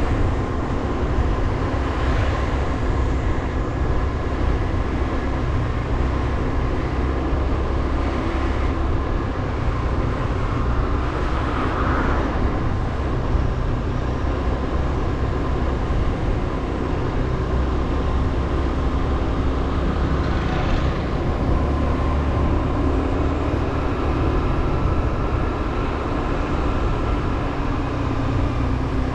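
Motorbike running steadily on the move, its engine and road noise forming a continuous drone.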